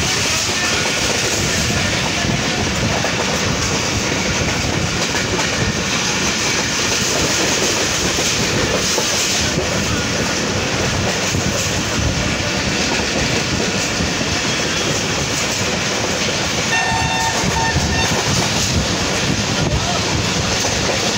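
Passenger train coach running along the track at speed, heard from an open doorway: a steady rumble and clatter of wheels on the rails. About seventeen seconds in, a brief high tone with several pitches sounds for about a second.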